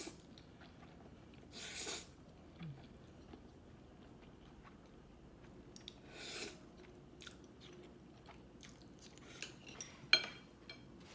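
A person chewing food close to the microphone, with small wet mouth clicks and two short breathy rushes of noise. A single sharp click a little after ten seconds in is the loudest sound.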